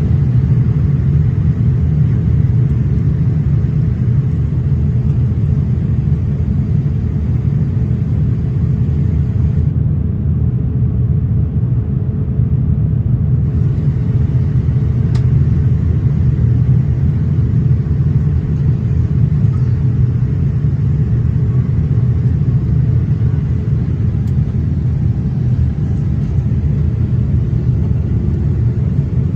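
Steady cabin noise inside a Boeing 787-8 airliner in flight: a deep, even rumble of engines and airflow, with a faint steady hum.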